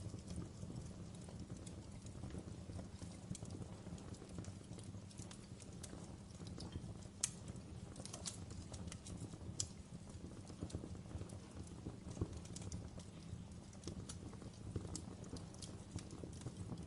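Wood fire burning in a fireplace: a steady low rumble of the flames with irregular crackles and sharp pops from the logs, a couple of them louder, about seven and nine and a half seconds in.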